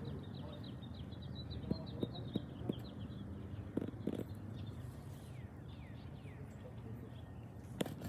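A small bird chirping, first in a rapid run of short notes for about three seconds, then a few falling chirps a little later. A steady low hum and a few light knocks sit underneath.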